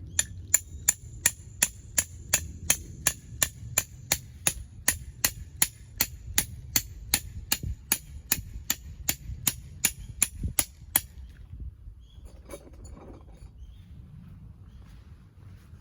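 Hammer striking a metal tent peg into the ground: an even run of sharp, ringing metallic strikes, about three a second, that stops about eleven seconds in.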